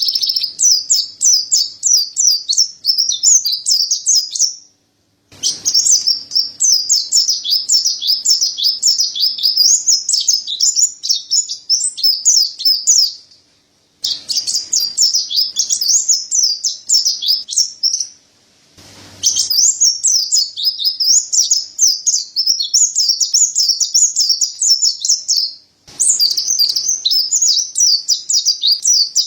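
Mountain white-eye (pleci dada putih, Zosterops montanus) singing a fast, high-pitched chattering song in long unbroken runs, stopped by short silences about four times.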